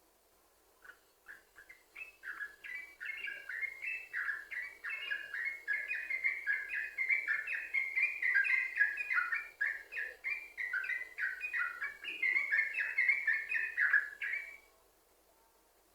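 Yellow-vented bulbul (trucukan) singing a long, unbroken run of quick chattering notes that jump up and down in pitch. The song starts about a second in and stops about a second before the end.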